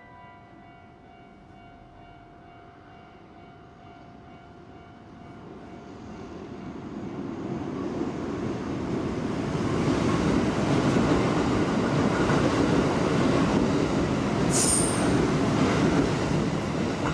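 Hanshin Railway electric train approaching and running by on the rails, growing louder over several seconds and then holding loud. A brief high squeal comes from the wheels or brakes near the end.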